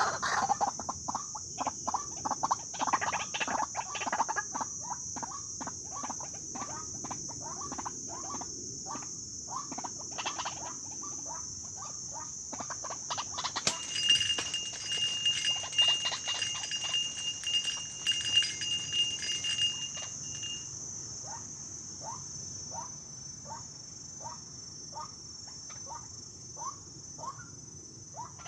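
A steady, high insect drone with runs of short, quickly repeated calls, likely birds.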